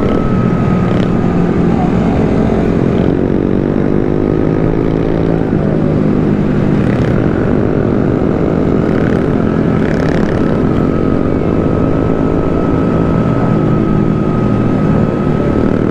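Small motorcycle engines running steadily while riding in a group, their pitch drifting slowly up and down. Wind rushes over the microphone, and a thin steady high whine runs underneath.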